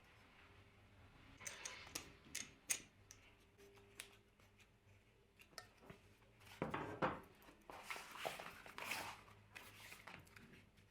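Scattered light clicks, taps and scraping noises of small hand work, busiest in the second half, over a faint steady hum.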